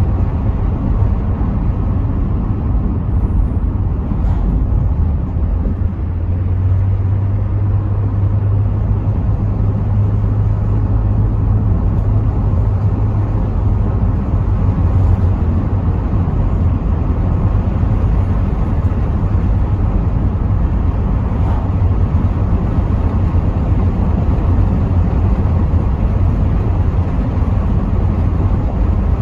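Inside a Rover 75 V6 Tourer on the move: a steady low engine drone under road and tyre noise, with wind coming through the partly open windows. From about six seconds in, a low engine hum stands out more strongly for several seconds.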